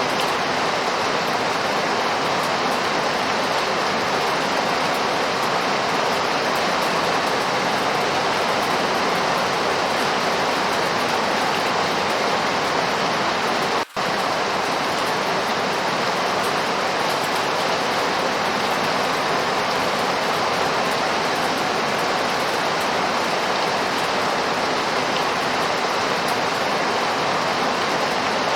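Steady, heavy rain falling, an even dense hiss. It cuts out for an instant about halfway through.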